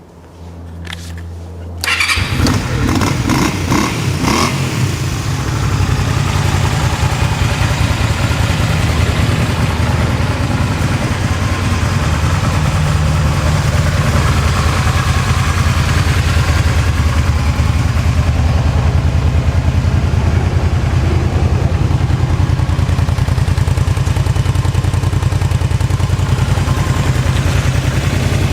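Honda Magna 250's V-twin engine through its stock muffler: the starter turns it over and about two seconds in it fires, runs a little unevenly for a few seconds, then settles into a steady idle.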